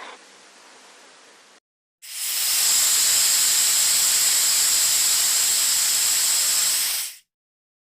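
Snake hissing: one long, steady hiss of about five seconds that starts about two seconds in and cuts off sharply.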